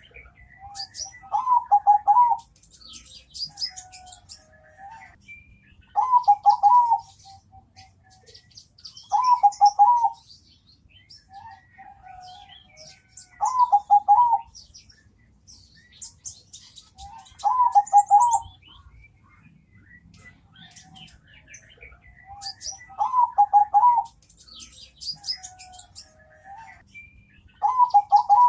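Zebra dove (perkutut) singing, a full cooing phrase of several quick notes repeated about every four seconds, seven times.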